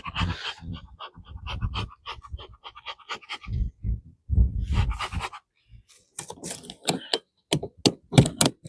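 Close-miked breathing with short scrapes, clicks and knocks from working the hive.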